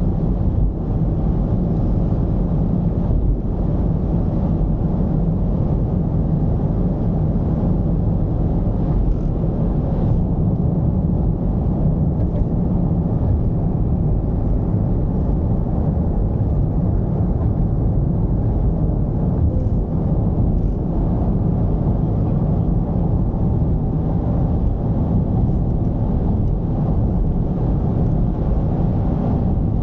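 Mercedes-Benz V220's diesel engine running while the van is under way, a steady dense low drone.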